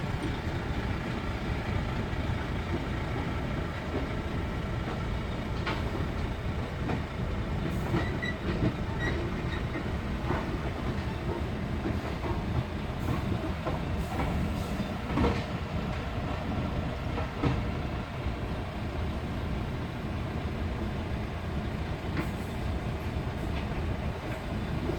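Sumitomo 490 excavator's diesel engine running steadily under load while it loads sand and gravel, with several sharp metallic clanks and knocks from the bucket and stone.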